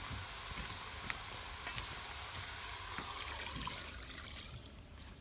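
Beef sizzling in a pot over a campfire: a steady hiss with a few faint pops. It dies away near the end.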